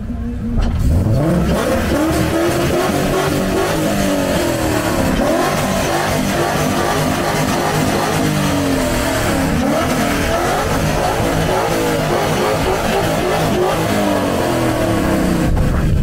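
Drift car's engine revving hard, its pitch rising and falling again and again, over a steady rushing noise.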